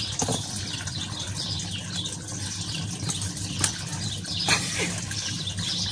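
Small birds chirping in the background over a steady low hum, with a few sharp clicks about a third of a second, three and a half and four and a half seconds in.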